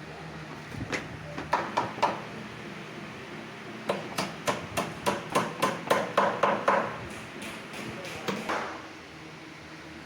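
Hammer blows: a few strikes about a second in, then a quick even run of about a dozen strikes, roughly three a second, and one more near the end.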